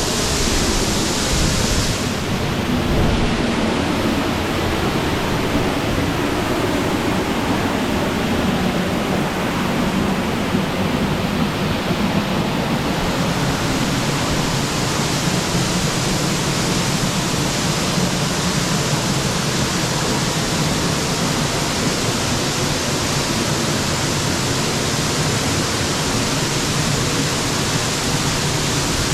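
Dry Falls waterfall pouring close by: a loud, steady rush of falling water. A couple of seconds in, the highest hiss dulls for about ten seconds, then returns.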